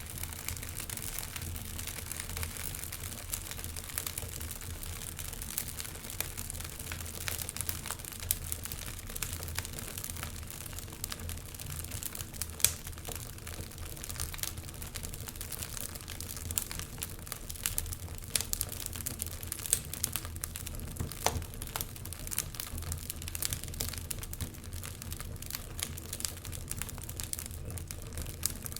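Wood fire burning in a fireplace, crackling steadily with frequent irregular sharp pops over a low, steady rumble.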